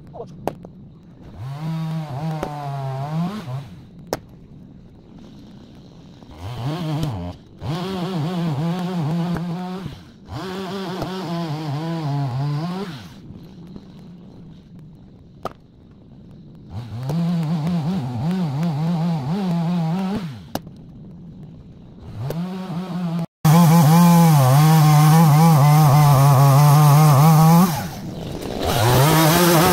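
Chainsaw cutting firewood logs: the engine revs up in repeated bursts of a few seconds and drops back to a quiet idle between cuts, then runs in one longer, louder cut near the end.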